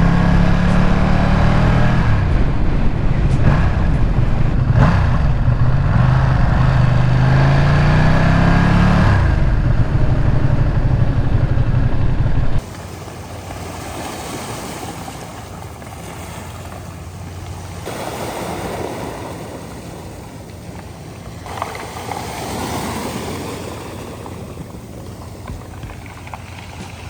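Ducati Streetfighter V2's 955 cc L-twin engine running under way, its pitch climbing as it accelerates and then dropping. About twelve seconds in, the sound cuts off suddenly to a much quieter, steady rushing noise.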